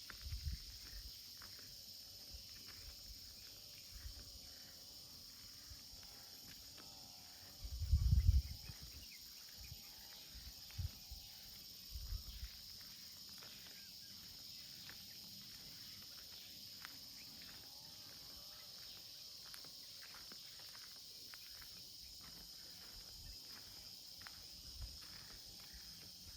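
Outdoor ambience on a walk: a steady, high-pitched insect chorus with faint footsteps, and a low gust of wind buffeting the microphone about eight seconds in, with smaller ones a few seconds later.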